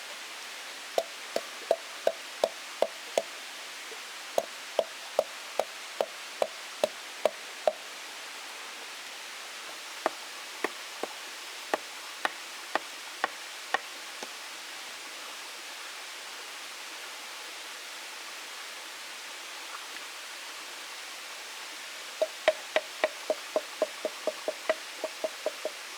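Wood being struck with a tool: runs of sharp, hollow knocks, about two to three a second, the last run faster, over a steady rushing hiss.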